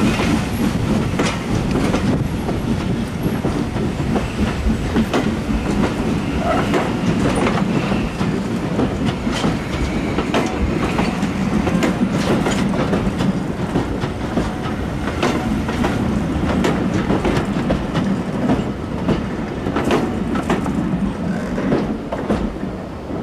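Railway passenger coaches rolling past close by: a steady rumble with the wheels clicking irregularly over the rail joints, fading a little near the end as the last coach clears.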